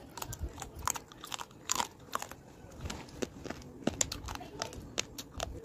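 A person chewing hard, crunchy mineral pieces with the mouth close to the microphone, giving many quick, irregular crunches and crackles; a few are sharper, about two seconds in and near the four-second mark.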